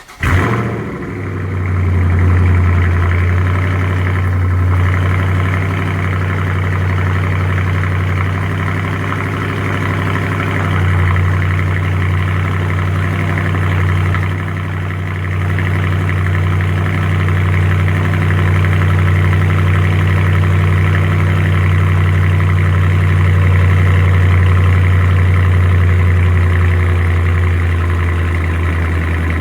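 A 2018 Dodge Charger R/T's 5.7-litre Hemi V8, with its mid muffler deleted, cold-starting: it catches almost at once with a brief flare in level, then settles into a steady cold idle.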